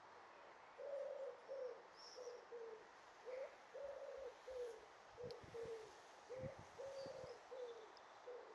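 A pigeon cooing: repeated phrases of soft, low cooing notes, each phrase with one drawn-out note among shorter ones.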